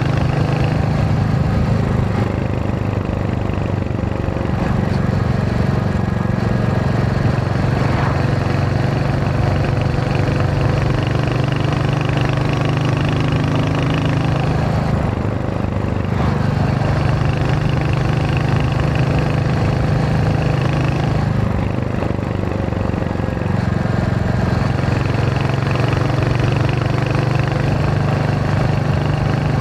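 Royal Enfield Hunter 350's single-cylinder engine and exhaust running steadily under way. The engine note dips briefly twice, around the middle and again about two-thirds through.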